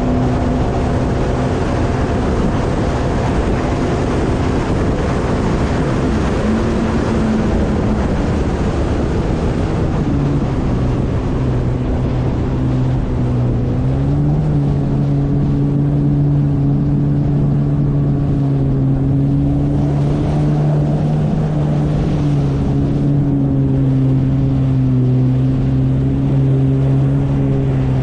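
Yamaha jet ski engine running under way, a steady loud drone over a rush of noise; its pitch rises and settles higher about halfway through as the throttle opens.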